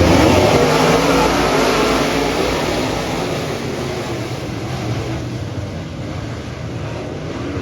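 Engines of dirt-track modified race cars running as the field rolls off, loudest at first and fading gradually over several seconds.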